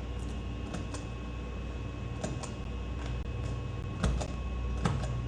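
Steady low hum of an idling semi truck, with a few light clicks and two short knocks about four and five seconds in.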